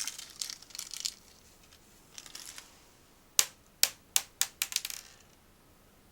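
Snack packaging handled: crinkling rustles, then about six sharp, loud crackles or snaps a little over halfway through.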